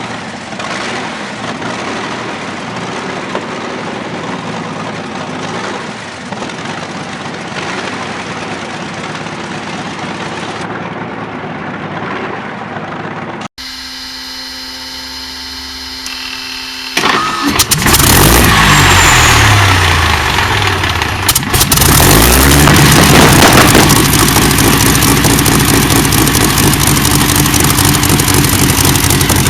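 A large engine running steadily. Then, in a separate clip, another large engine is cranked and starts suddenly and loudly, its pitch sweeping down and back up as it settles. It then runs steadily and loudly.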